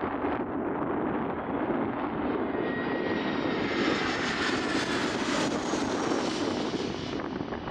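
Airbus A319 jet engines on approach. The sound swells as the airliner passes, with a thin whine running through it, peaks about five seconds in, then begins to fade.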